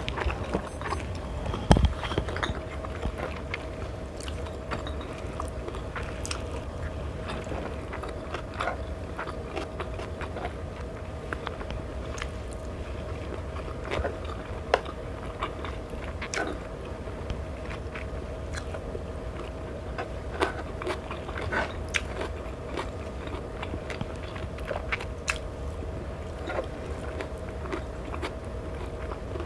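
Close-up eating sounds: chewing and biting, with many small wet clicks and smacks of mouth and utensils, over a steady low hum. A single louder thump about two seconds in.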